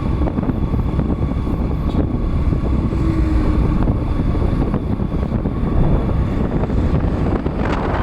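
Wind rumbling on the microphone over a boda boda motorcycle taxi's engine running steadily while riding along.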